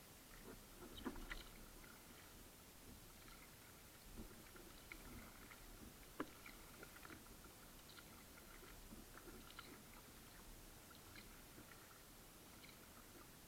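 Kayak on the water, very quiet: faint scattered drips, splashes and small knocks of paddle and water against the hull, with one sharper click about six seconds in.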